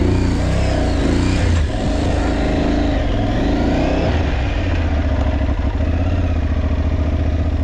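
Aprilia Tuareg 660's parallel-twin engine running as the motorcycle is ridden, its revs rising and falling with the throttle in the first half, then holding steadier.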